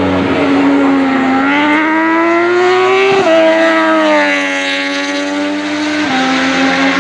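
Racing superbike engine at high revs going past. Its note climbs for about two seconds and breaks sharply about three seconds in, then falls away steadily, with another sudden step in pitch near the end.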